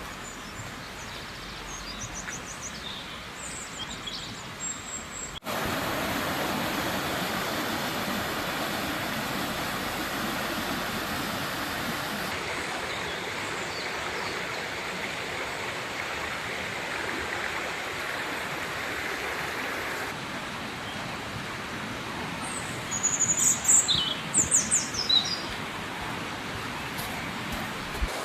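River water rushing steadily, jumping suddenly louder about five seconds in. Small birds chirp over it, with a loud run of bird calls near the end.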